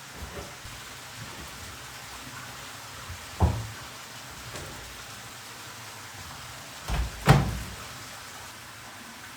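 Steady hiss with a sharp knock about three and a half seconds in and a louder double knock around seven seconds in.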